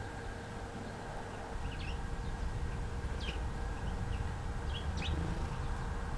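Small songbirds giving a few short, high chirps, scattered through, over a steady low background rumble.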